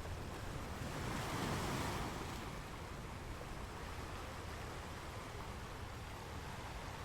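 Ocean waves washing on a shore: a steady surf wash, with one wave swelling up and falling away about a second in.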